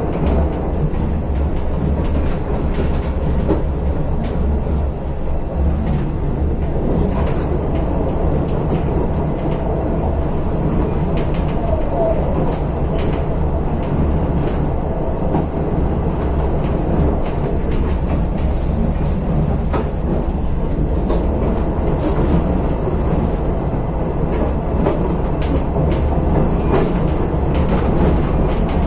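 Passenger train running along the line, heard from inside the carriage: a steady low rumble with irregular sharp clicks from the wheels on the rails.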